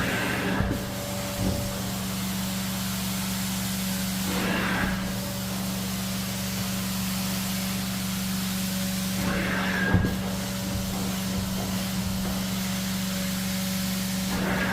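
Carpet-cleaning extraction machine running with a steady hum and hiss, with a cleaning wand pulled across the carpet about every five seconds, each pass giving a short rush with a brief whistle of suction.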